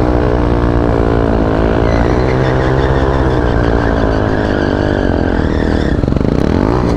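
Supermoto motorcycle engine held at high revs during a burnout, a steady loud drone; near the end the revs dip and climb again.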